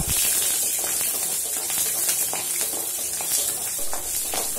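Shallots, peanuts and lentils sizzling in hot oil in a metal kadai, with a steady hiss, while a wooden spatula stirs them with small scraping taps against the pan.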